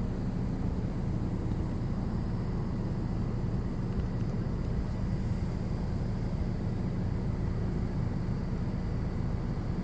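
Steady low mechanical hum that runs unchanged throughout, with no distinct events.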